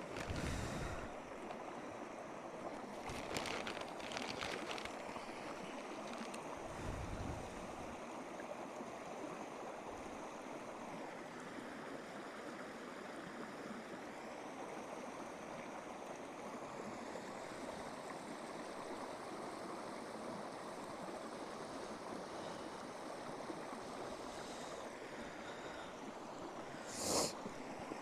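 Steady rushing noise, with a few brief louder sounds over it and a short sharp one near the end.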